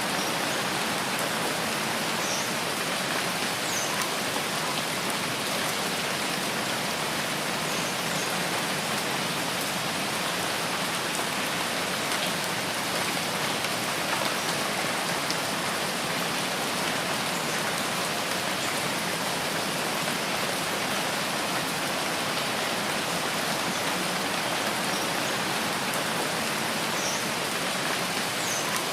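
Steady rain falling in a forest: an even, unbroken hiss of drops, with a few faint, short, high chirps now and then.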